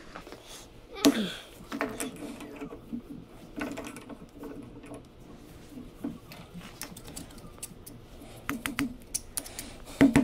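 Light metallic clicking and scraping as a hand tool works inside a Mag-Lite flashlight tube to free a corroded, stuck battery, with a short, louder falling sound about a second in.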